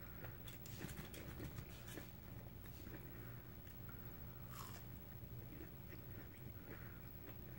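A person biting and chewing a crunchy snack, with scattered crunches and one loud crunching bite about four and a half seconds in, over a low steady hum.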